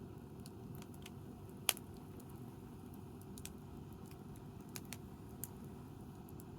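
Wood fire crackling: scattered sharp pops over a low steady rumble, the loudest pop about a second and a half in.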